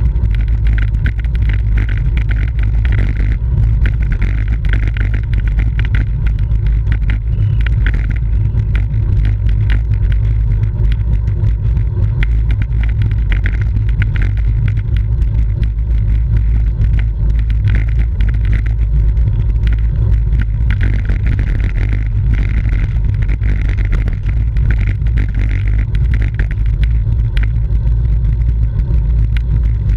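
Wind buffeting the microphone of a camera riding on a racing bicycle at speed: a steady low rumble, with road and tyre noise and scattered small ticks.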